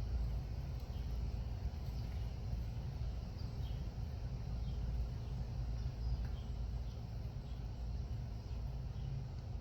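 Outdoor ambience: a steady low rumble with faint, short, high bird chirps scattered throughout.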